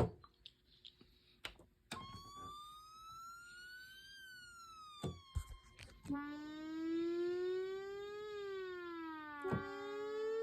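Yamaha DX7 FM synthesizer playing a preset from the VRC-105 cartridge: sustained notes that slide slowly up and then down in pitch like a siren. Short clicks come between the notes. The first couple of seconds are nearly quiet.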